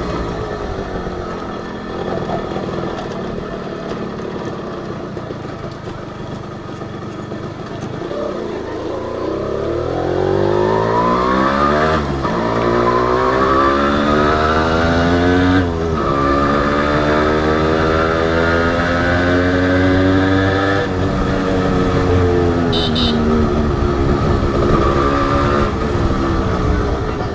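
Honda H100S two-stroke single-cylinder motorcycle engine under way. It runs low and steady at first, then about a third of the way in accelerates with a rising pitch, dropping back at two gear shifts. It then holds a steady cruising note before the throttle is eased off near the end.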